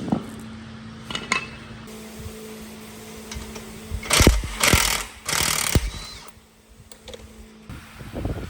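A power tool fired in three short, loud bursts about four to six seconds in, over a steady low electric hum and a few clicks.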